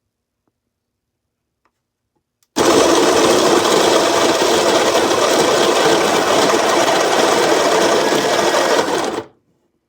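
Baratza Encore coffee grinder's motor switched on, running steadily for about six and a half seconds, then cut off suddenly.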